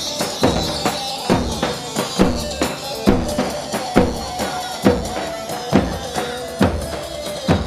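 Instrumental halay dance music from a band: a heavy drum beat about once a second with lighter hits between, under a held melody from an electronic keyboard.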